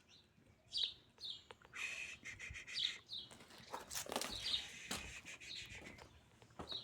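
Birds chirping: a string of short, falling chirps repeated every half second or so. A few sharp clicks and crackles come about four to five seconds in.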